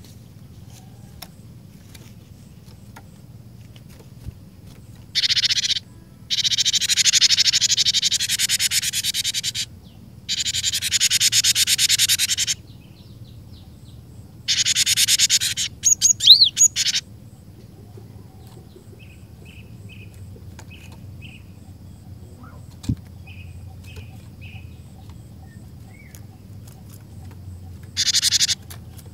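Cinereous tit calling: several long runs of harsh, rapid buzzing churr, broken by short gaps, with a few sharp falling whistled notes. Quieter short notes come in between the runs, and another short burst comes near the end.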